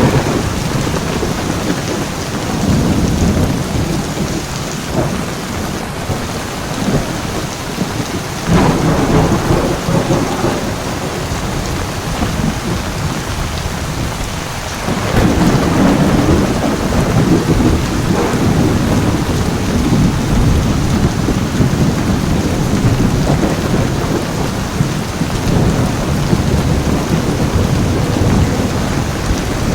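Heavy rain falling steadily with thunder rumbling through it; the low rumble swells suddenly about eight seconds in and again about fifteen seconds in.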